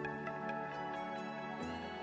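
Background music: calm chillstep with sustained chords and light bell-like notes, the chord changing about a second and a half in.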